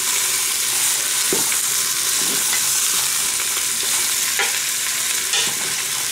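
Sliced smoked sausages, onion and garlic sizzling steadily in the bowl of a Cookeo multicooker as they brown, stirred with a spatula that scrapes the bowl a few times.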